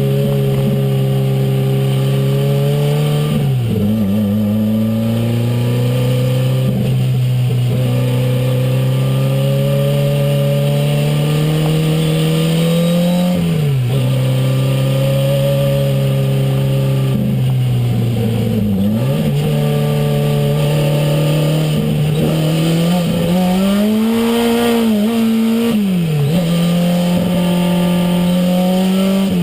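Renault 5 Turbo's turbocharged four-cylinder engine heard from inside the cabin under hard driving. The pitch climbs steadily through the revs and drops sharply at each gear change, several times over.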